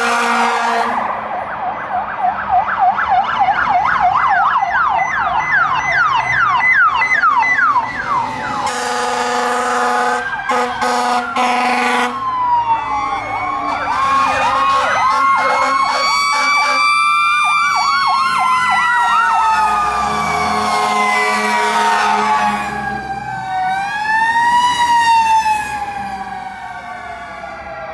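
Fire apparatus sirens passing: an electronic siren in a fast yelp for the first several seconds, then several slow wailing sirens rising and falling over one another, the Federal Q mechanical siren type among them. Brief blasts, likely air horns, come in between, about 8 and 11 seconds in.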